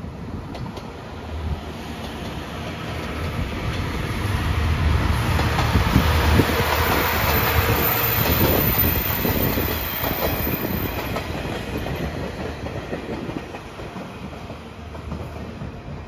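Seto Ohashi Anpanman Torokko, a two-car diesel trolley train, passing by with wheels clicking over the rail joints. The sound builds to a peak about halfway through and fades as the train moves away.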